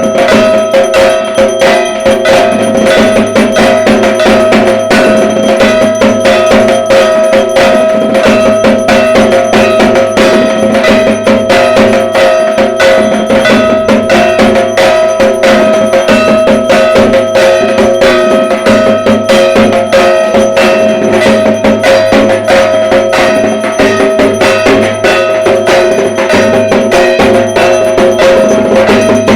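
Dhak drums beaten in a fast, unbroken rhythm, with a steady metallic ringing over the strokes.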